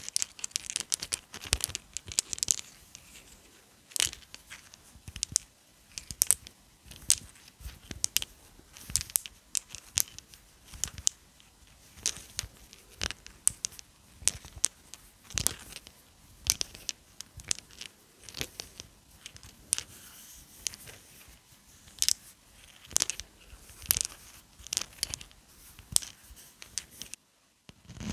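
Close-up crinkling and tearing sounds: a dense, irregular run of short crackles and snaps, several a second.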